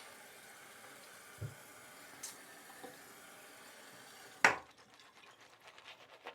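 Faint steady hiss of water running from a tap, with a few small knocks. The water ends at a sharp knock about four and a half seconds in, followed by faint light clicks and scratches.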